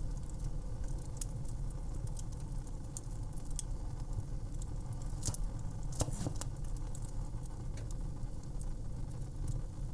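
Fire crackling: irregular sharp pops and snaps over a steady low rumble, with a few louder pops about five to six seconds in.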